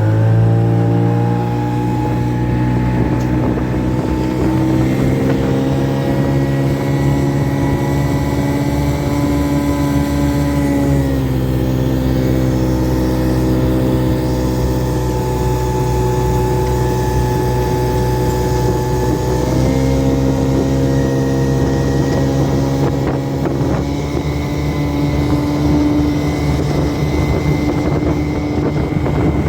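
Soviet Vikhr two-stroke twin-cylinder outboard motor running steadily on test after repair. Its engine speed eases down slightly about five seconds in, drops further around eleven seconds, and picks back up around twenty seconds.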